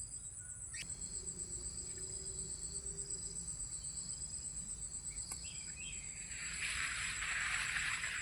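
An insect trilling steadily at a high pitch in rapid, even pulses. A hiss of noise rises from about six and a half seconds in.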